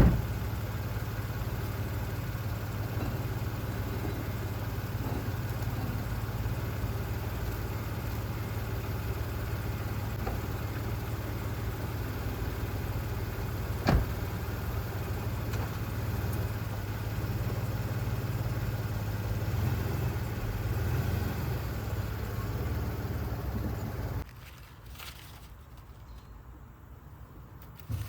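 2004 Toyota Sienna's 3.3-litre V6 idling steadily, then stopping suddenly about 24 seconds in. A single sharp knock comes about halfway through.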